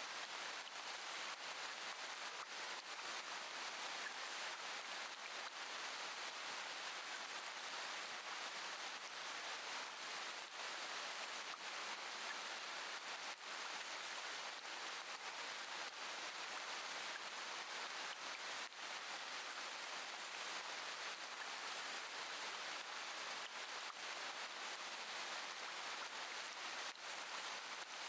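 Steady rain falling, a continuous even hiss with no thunder.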